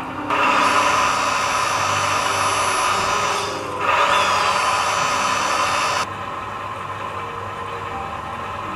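Small electric hydraulic pump motor of an R/C scale crane truck running with a high whine. It dips briefly about three and a half seconds in, picks up again, then cuts off suddenly about six seconds in.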